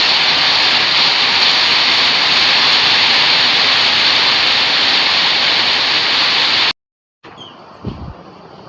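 Heavy rain pouring down in a loud, steady hiss. Near the end it cuts off suddenly, giving way to a much quieter rushing with one brief low thump.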